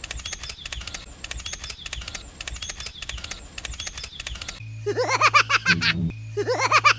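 A rapid, even run of clicks for the first few seconds. Then, about two-thirds of the way in, a cartoon snoring sound effect: wavering whistle-like rises alternating with a low buzzing snore, twice over.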